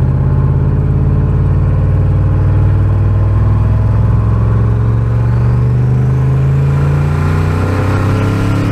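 Turbocharged, carbureted truck engine running under load while the truck drives, its pitch climbing slowly and steadily as it pulls.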